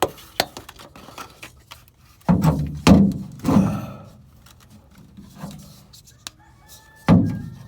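Hand-work noises in a tight engine bay while a spark plug wire boot is worked onto its plug: light clicks and taps, then a cluster of heavier thunks about two to four seconds in and another near the end.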